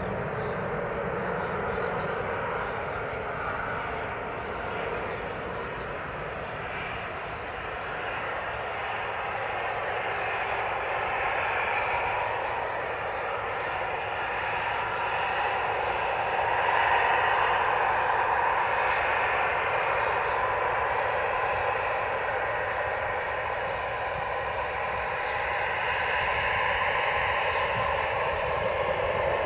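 Airbus A320's CFM56 jet engines heard from a distance, a steady rushing noise with no clear tone that slowly swells and fades.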